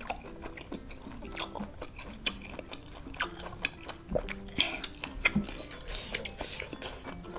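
A person chewing a mouthful of chewy baso aci (tapioca meatball) close to the microphone, with many sharp wet clicks and smacks at an uneven pace. Light background music plays beneath.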